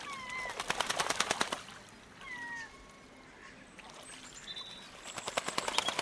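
A bird's wings flapping in two fast clattering bursts, about a second in and again near the end, with short falling calls between them.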